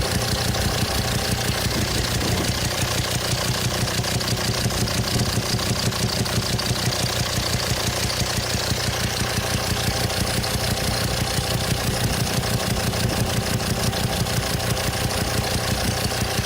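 Volvo D5 five-cylinder diesel idling with a steady, regular popping coming through the opened intake at the throttle body. The popping is pressure blowing back through the intake: one exhaust valve on cylinder 5 is stuck closed after its hydraulic lifter socket sheared off.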